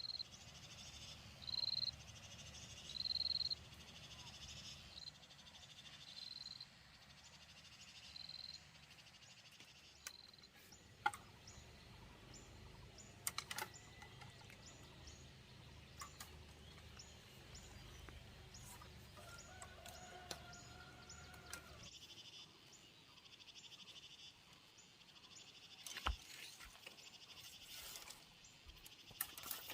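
Birds chirping faintly: a short high note repeats every second or two and fades out over the first ten seconds, followed by scattered light clicks and ticks and a brief call about two-thirds of the way through.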